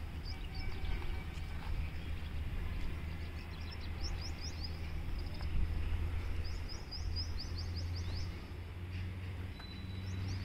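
Small birds chirping in quick runs of short high notes, thickest in the middle of the stretch, over a steady low outdoor rumble.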